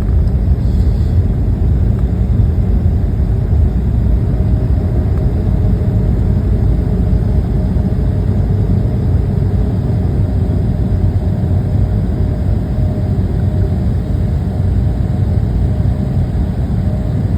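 Airliner cabin noise after landing: a loud, steady low rumble of the jet's engines and its wheels rolling on the ground, with a faint steady whine through the middle.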